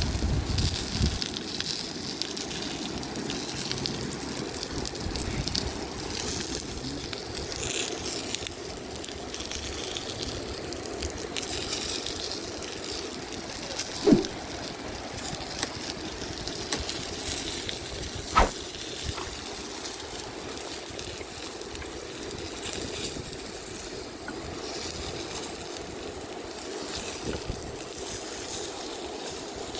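Food frying in oil over a wood fire with a steady sizzle and hiss. Two short, sharp knocks come about halfway through, a few seconds apart, the second with a brief ring.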